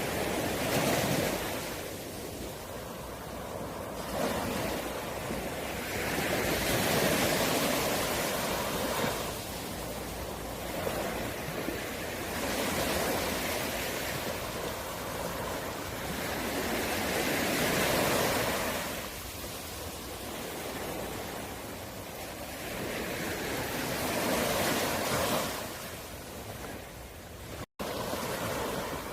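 Sea waves breaking and washing in, the surf swelling and fading in regular surges about every five to six seconds. The sound cuts out for an instant near the end.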